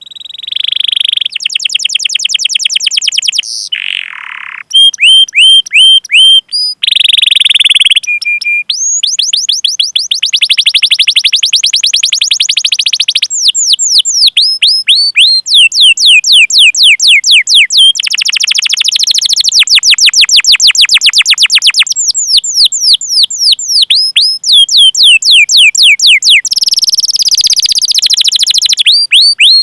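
Domestic canary singing: long, fast rolling trills alternating with runs of sharp 'cuit cuit' chirps, two or three a second, and a few short whistled notes.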